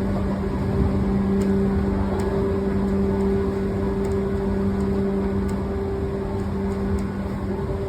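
Running sound inside a 113-series electric multiple unit motor car (MoHa 112): a steady rumble of wheels on rail with a constant hum that drops out briefly near the end, and a few faint clicks.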